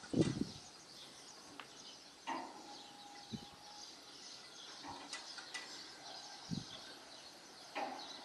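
Wind buffeting the microphone in a few short low gusts, loudest right at the start, over faint birds chirping, with scattered clicks and a brief steady squeak.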